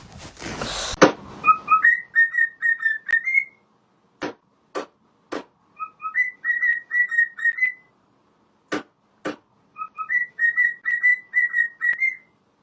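A short whistled phrase, two lower notes then a quick run of chirps at one higher pitch, repeated three times with pauses, with a few sharp clicks in the gaps. It follows a brief burst of noise at the start.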